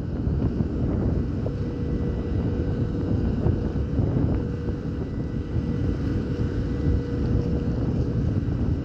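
Ferry engines running with a steady low drone and a faint held tone, under heavy wind buffeting the microphone.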